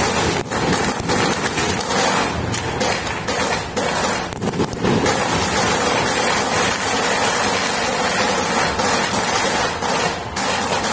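Many fireworks and firecrackers going off at once across a city, heard as a continuous dense crackle of overlapping bangs.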